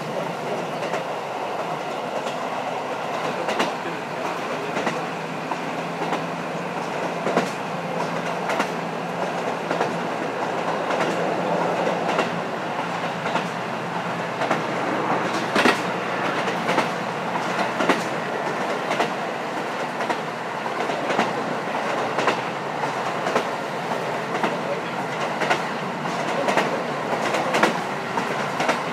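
KiHa 54 diesel railcar running at speed, heard from inside the car directly above the engine with a window slightly open. A steady rumble of engine and wheels, with irregular rail-joint clicks and knocks all the way through.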